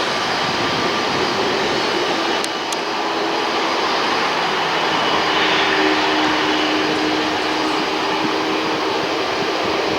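Airbus A330-243F freighter's Rolls-Royce Trent 700 jet engines running, a loud steady rush with a few low steady hums underneath that strengthen after the first few seconds.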